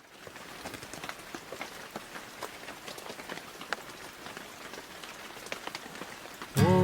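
Rain falling, with many separate drops tapping sharply on a surface over a steady patter. Music starts loudly near the end.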